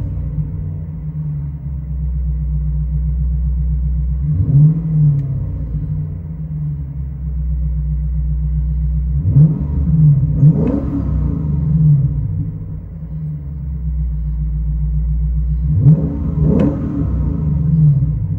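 Lexus IS 500's 5.0-litre V8 running through a Kinney's Street Demon performance exhaust, idling and revved up and let fall back to idle several times.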